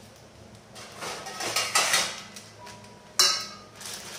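Metal kitchen utensils clattering, then a single sharp metallic clang about three seconds in that rings briefly.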